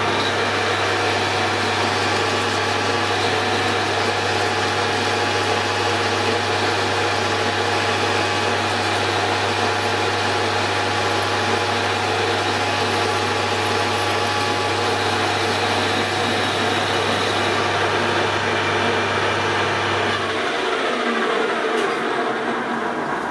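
Hare and Forbes AL335 metal lathe running steadily during a boring cut with a small boring bar. About twenty seconds in, its motor hum cuts off suddenly and the spindle spins down, fading out near the end.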